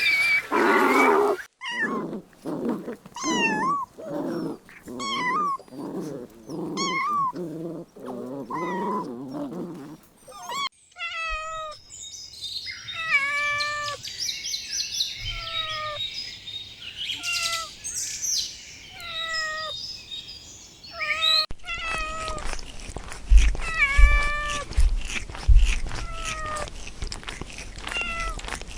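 Young animals crying: repeated short, high-pitched calls, roughly one a second, in three stretches broken by abrupt cuts about 11 and 21 seconds in.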